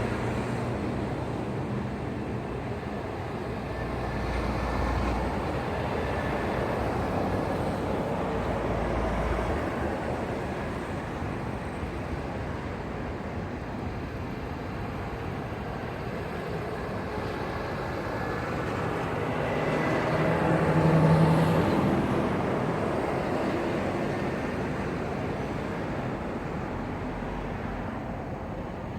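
Road traffic passing on a highway, with one heavy vehicle going by loudest about two-thirds of the way through.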